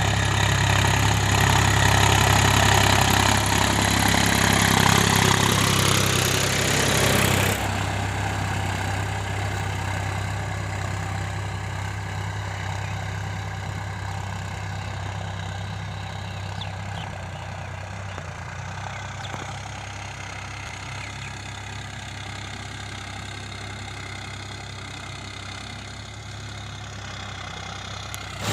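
Mahindra Yuvo Tech+ 415 DI tractor's diesel engine running steadily with a deep hum. About seven seconds in, the sound drops suddenly to a quieter, duller level and stays there.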